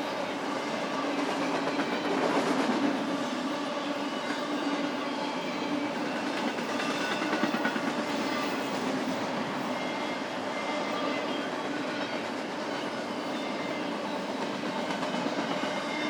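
BNSF intermodal freight train rolling past, its wheels running steadily over the rails with faint steady ringing tones; a little louder about two seconds in.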